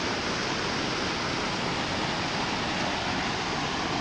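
Flood-swollen creek rushing fast after heavy rain, a steady full roar of fast-moving water with no breaks.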